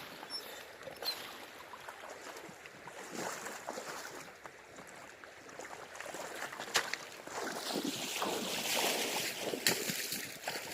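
River water splashing and sloshing in the shallows, with scattered small clicks and knocks of stones. It grows louder over the last few seconds.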